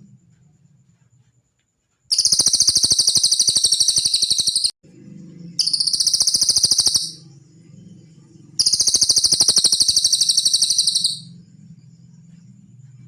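Cililin songbird giving three long, rapid, high-pitched trills, each a fast run of repeated notes lasting about one and a half to two and a half seconds, with short pauses between. A faint low hum runs underneath.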